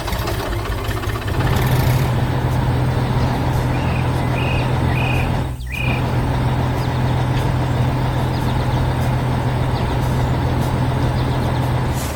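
A heavy truck's engine running steadily under load, with a deep, even hum that grows louder about a second and a half in and briefly drops out near the middle. A few short high chirps sound around the middle.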